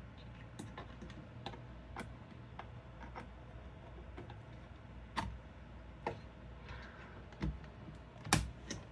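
Scattered small plastic clicks and taps as DDR5 memory sticks are handled and fitted into motherboard RAM slots, the loudest click near the end.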